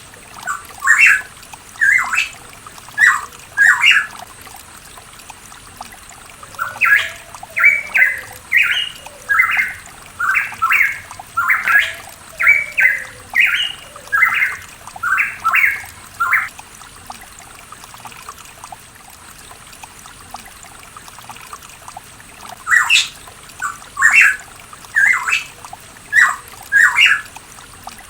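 A pitohui calling in quick runs of short, harsh notes: a few at the start, a long run of a dozen or more from about 7 to 16 seconds in, and another run near the end.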